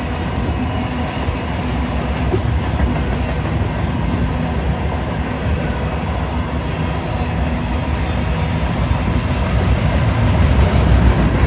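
Freight train rolling past: a continuous rumble of steel wheels on the rails, growing slightly louder toward the end.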